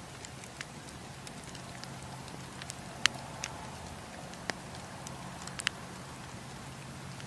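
Campfire burning, with irregular sharp crackles and pops of burning wood over a steady hiss and a low hum; the loudest pop comes about three seconds in.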